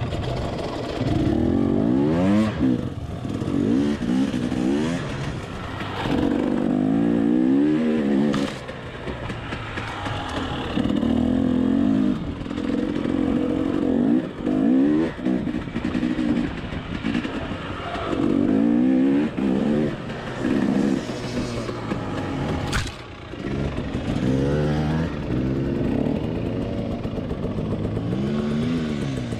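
Dirt bike engine revving up and down in repeated bursts of throttle while riding at low speed over a muddy, rutted trail. A few sharp knocks stand out over the engine.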